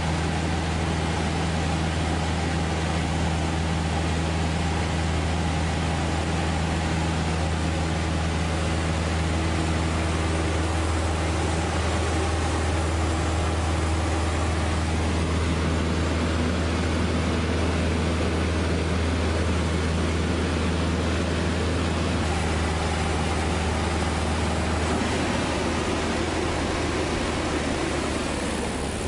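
Steady drone of a propeller aircraft's engine over a hiss of rushing air; its low note drops slightly a few seconds before the end.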